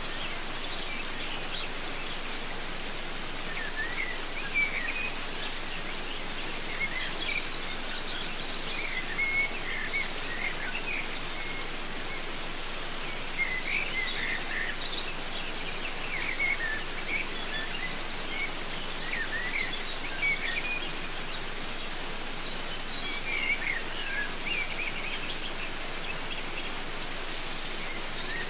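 Steady rushing of a waterfall, with birds calling in short chirping phrases every few seconds over it.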